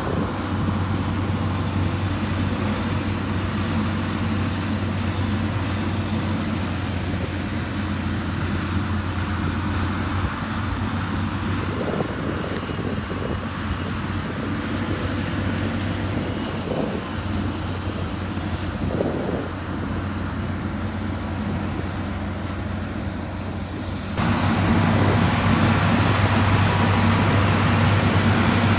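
Heavy construction machine's diesel engine running steadily with a deep drone. It gets abruptly louder about three-quarters of the way through.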